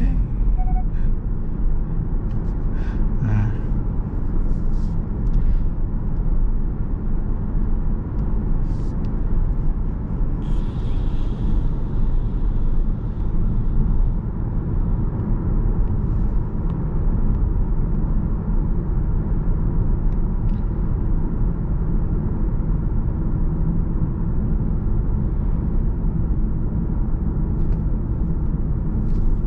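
Steady low rumble of a car driving at road speed, tyre and engine noise, with a brief higher hiss about ten seconds in.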